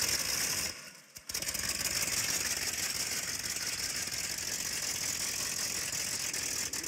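Hot rod engine sound effect running rough and loud; it drops out briefly about a second in, then runs on steadily.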